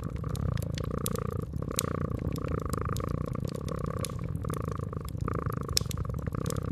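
A domestic cat purring steadily, with the irregular crackles and pops of a wood fire over it.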